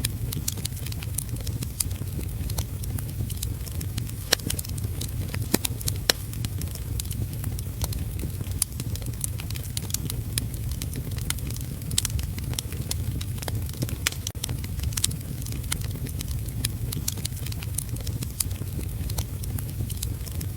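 Wood fire crackling in a fireplace, with frequent irregular sharp pops over a steady low rumble, mixed with the steady hiss of heavy rain.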